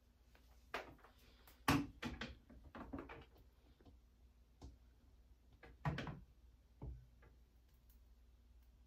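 A series of light knocks and clicks from small objects being handled and set down, with the sharpest about two seconds in and another near six seconds.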